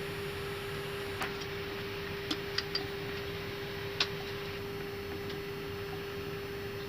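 Airbus A319 cockpit at the gate with a steady hum, and about five sharp clicks of cockpit switches being set during the parking procedure, three of them close together near the middle.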